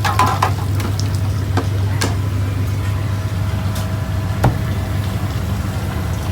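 Food-stall kitchen noise: a steady low hum with a few sharp clacks, the loudest about four and a half seconds in.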